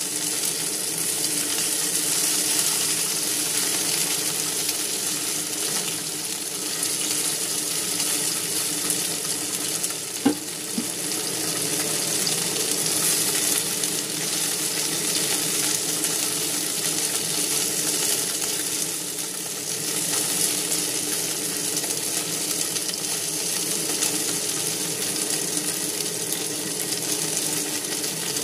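Chicken wings frying in a granite-coated frying pan: a steady sizzle, with one sharp tap about ten seconds in as the wings are placed with chopsticks.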